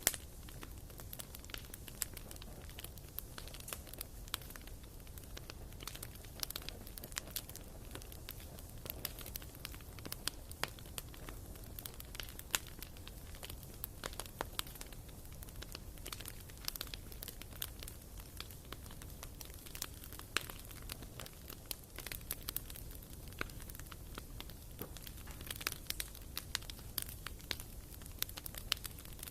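Wood fire crackling in a fireplace: irregular sharp pops and snaps of burning logs over a steady low rumble.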